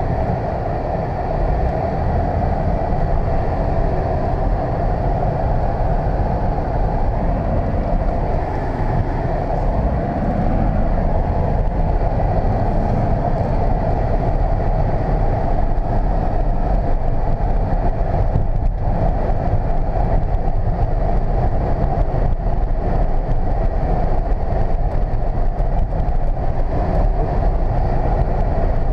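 Steady cabin noise of a 1999 Volvo S80 T6 being driven: its twin-turbo inline six running and the road noise, with the air conditioning blowing.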